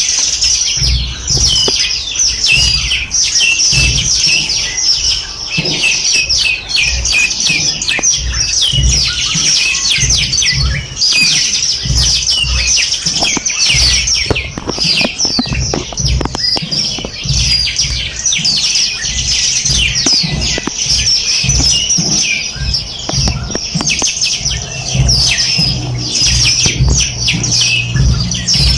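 A dense chorus of many small birds chirping and trilling at once, a continuous stream of quick, high overlapping calls, with soft low thumps underneath.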